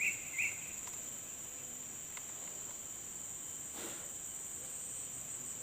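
Steady high-pitched drone of insects such as crickets, with a run of short, evenly repeated chirps that stops within the first second. A brief faint swish comes near the four-second mark.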